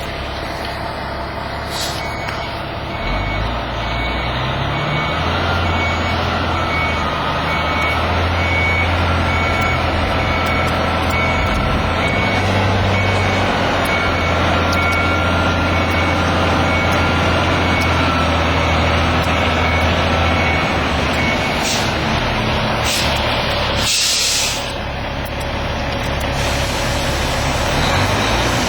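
Dump truck backing up: its reversing alarm beeps steadily while the diesel engine, a CAT C-13, pulls under load. Near the end the engine eases off and the air brakes let out a few short hisses, the largest about four seconds before the end.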